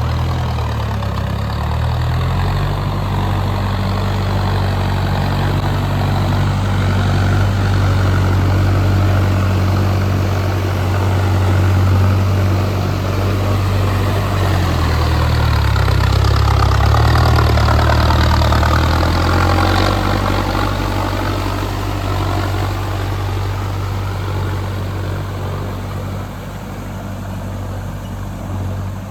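Mahindra Arjun Novo tractor's diesel engine running steadily, its note shifting about halfway through and getting a little louder before easing off again.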